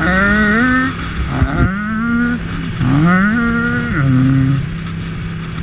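1998 Ducati Monster 750's air-cooled V-twin engine accelerating hard. Its pitch climbs, then drops at each upshift, about three times, and holds steadier near the end.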